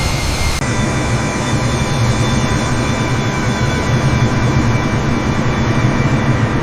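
Airplane engine drone: a loud, steady rush with a low rumble under it and a faint, even whine. The high hiss shifts slightly about half a second in.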